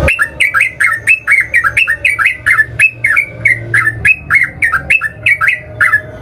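Yellow-vented bulbul (trucukan) singing a long, fast run of short, bubbly, looping notes, about three a second, that stops near the end.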